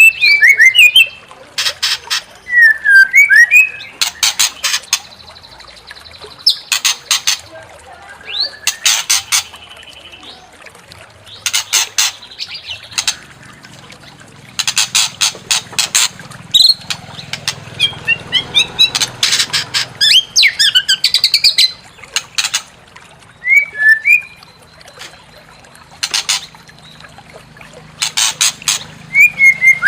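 White-rumped shama (murai batu) singing in an aggressive, provoked way. Bursts of rapid, harsh, stuttering rattles every second or two alternate with short whistled notes that glide up and down.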